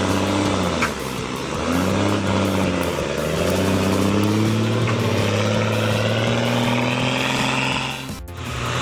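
Heavy truck's diesel engine working hard. Its pitch rises and falls several times as the revs change, then climbs slowly and steadily, and it cuts off abruptly about eight seconds in.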